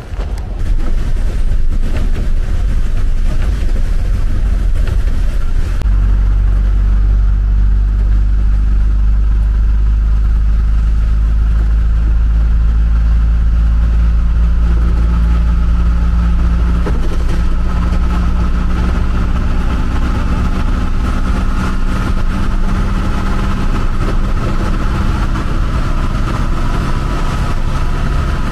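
Vehicle engine running close by in street traffic: a steady low hum.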